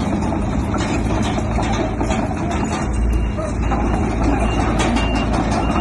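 Bulldozer's diesel engine running steadily under a heavy low rumble, with a continuous rapid rattle.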